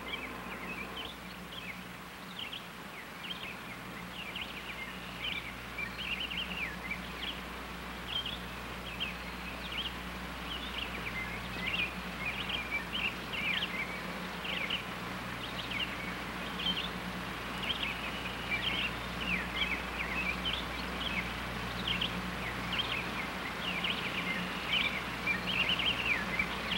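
Small birds chirping and singing, many short calls overlapping throughout, over a steady low electrical hum.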